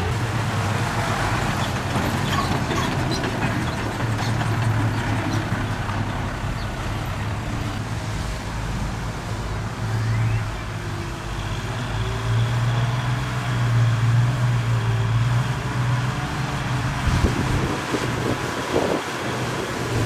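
Diesel engine of heavy earthmoving equipment running under work, a steady low drone that swells and eases as the load changes.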